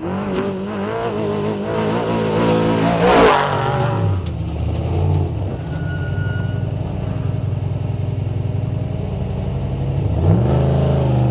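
Off-road race truck engine revving hard and rising in pitch to a loud peak about three seconds in, then dropping to a lower, steady drone, with another rise in pitch near the end.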